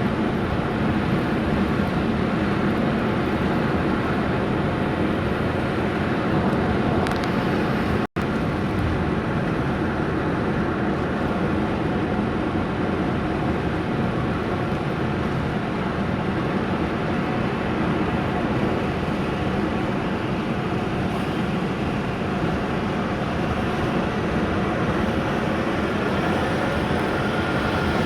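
Car being driven: a steady drone of engine and road noise. The sound cuts out for an instant about eight seconds in.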